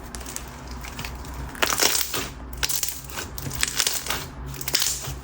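Thick coated-clear slime being pressed and worked by hand. Starting about a second and a half in, it gives a run of crackling, crunchy pops.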